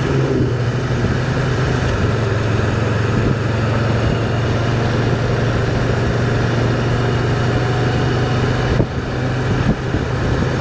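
Can-Am Spyder three-wheeled motorcycle's three-cylinder engine running steadily while cruising, with wind rushing over the microphone.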